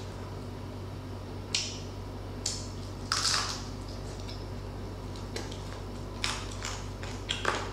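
Close-miked eating sounds: crispy pata (deep-fried pork leg) crackling being crunched and chewed. There is a scatter of short crisp crunches, the loudest about three seconds in.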